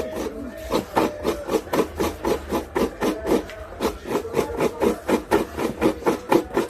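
A fast, even rhythm of short wooden knocks or scrapes, about five strokes a second.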